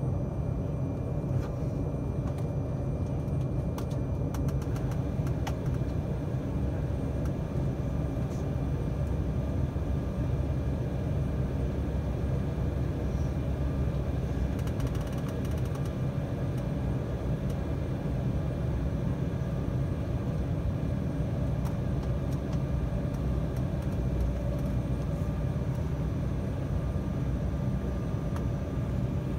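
Cabin noise aboard an Embraer 195 taxiing: a steady low rumble from its GE CF34-10E turbofan engines at low thrust, with a faint steady hum and a few faint clicks of cabin fittings.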